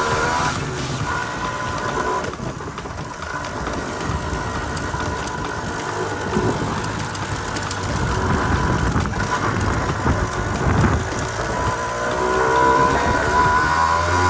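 Small two-stroke single-cylinder motorcycle engine of a Honda NSR running under way, its pitch rising twice as it revs up.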